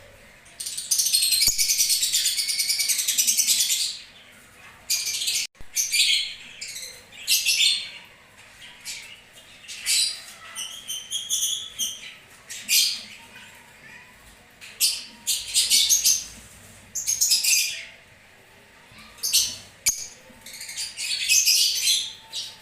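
Lovebirds calling: shrill, high chirps and squawks in short bursts, with a dense run of rapid chattering from about a second in that lasts some three seconds.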